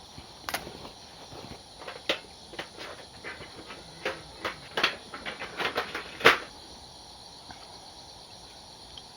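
A series of irregular sharp knocks and clicks, the loudest about six seconds in, followed by a faint steady hiss.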